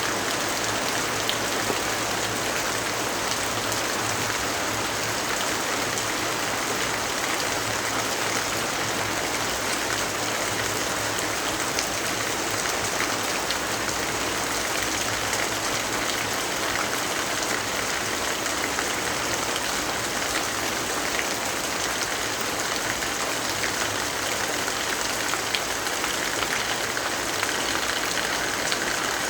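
Steady rainfall, an even hiss with scattered light drop ticks.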